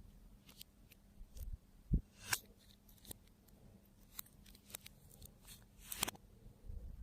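Slime and add-ins being worked by hand: scattered sticky clicks and crackles, a low thud about two seconds in, and two louder crackles about two and six seconds in.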